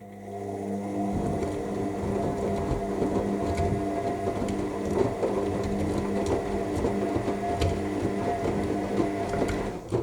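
AEG 7000 Series front-loading washing machine tumbling its drum during the main wash: the motor hums steadily while the wet load churns, with scattered clicks. The motor starts about a second's ramp-up, runs for about ten seconds, then stops abruptly, one leg of the wash's back-and-forth tumble.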